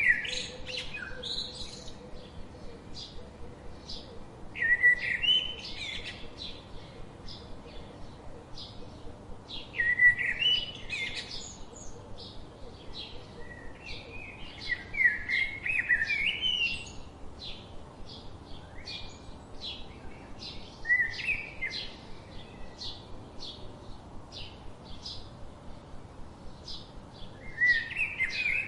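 Birds singing: a short warbled song phrase repeated about every five seconds, over a steady run of quick, high chirps several times a second.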